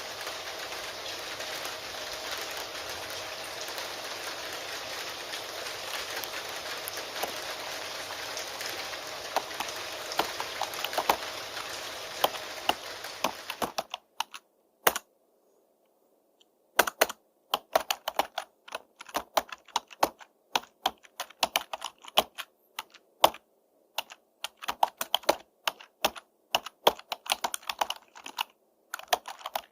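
Steady rain with computer keyboard typing starting up over it; about halfway through the rain cuts off abruptly. After a short pause the typing carries on alone as quick, irregular key clicks.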